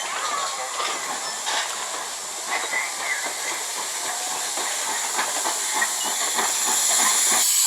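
Former H.K. Porter 0-6-0T tank steam locomotive working along the track: a steady hiss of steam with irregular clanking and clatter from the running gear and wheels, and a few short squeals. The steam hiss grows louder near the end.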